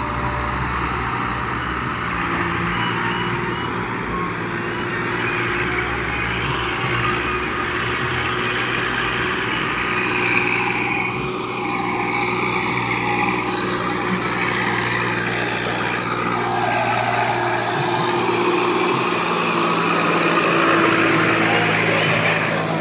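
Heavy diesel machinery running steadily, from the stuck tractor and the JCB working to free it from wet mud.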